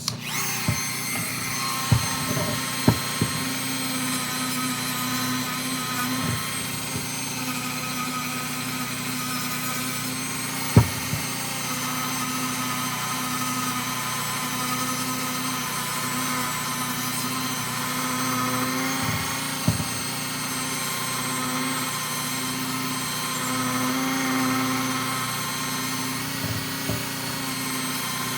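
Dremel rotary tool running steadily at high speed with a worn bit, grinding black grime and paint out of the recesses of an aluminum chainring; a few sharp clicks sound over the whine.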